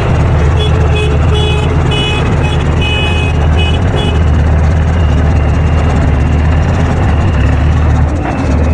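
Heavy diesel engine of earthmoving machinery running steadily with a deep rumble. For the first few seconds a series of short high beeps repeats about three times a second. Near the end a faint high tone slides slowly downward.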